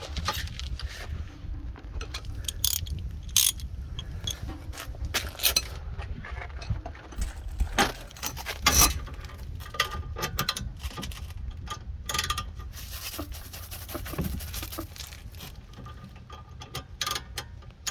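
Socket ratchet clicking in irregular runs as the lower rear shock-absorber mounting bolt is backed out, with a few sharper metal clinks among the clicks.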